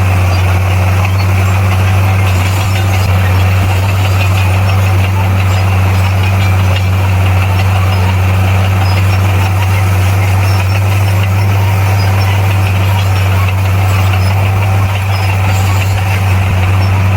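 Bulldozer's diesel engine running steadily, a constant low drone with no change in pitch.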